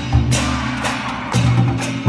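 Festival music from a Nagasaki Kunchi performance: sharp percussion strikes, a beat roughly every half second, over a sustained low tone.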